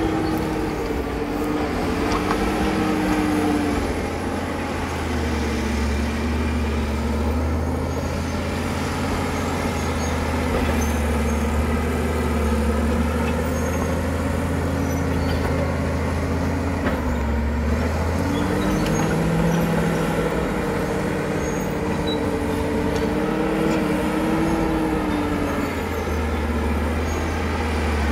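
Caterpillar D7 bulldozer's diesel engine running hard, its pitch sagging for long stretches and picking up again. A thin high whine wavers above it.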